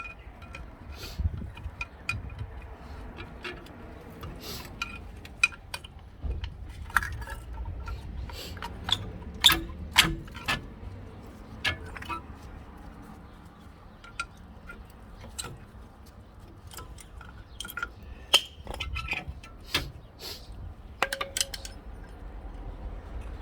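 Irregular metallic clinks and knocks of hand tools and steel brake parts being handled and set down during a front brake disc and pad change.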